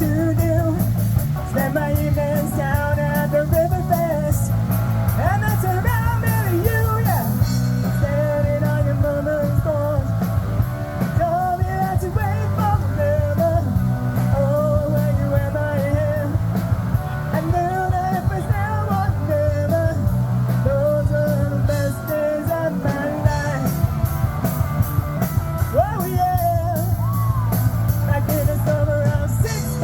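Rock band playing live: a sung lead vocal over guitar and drums.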